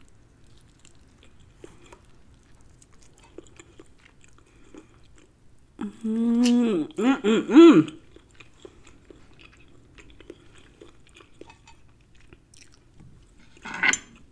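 Close-miked chewing of tender chicken thigh meat, soft wet mouth clicks. About six seconds in comes a loud, drawn-out hum of enjoyment lasting about two seconds, its pitch swooping up and down. A brief noise follows near the end.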